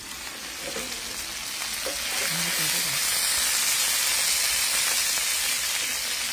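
Chicken thighs sizzling in a frying pan over a wood fire while they are stirred and turned. The steady hiss gets louder about two seconds in.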